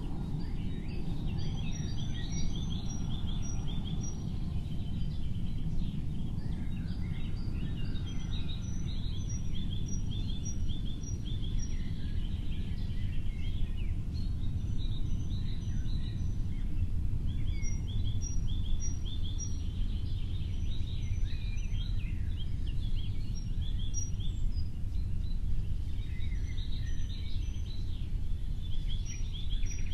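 Several small birds chirping and calling at once, with short runs of quick, evenly repeated high notes, over a steady low rumble.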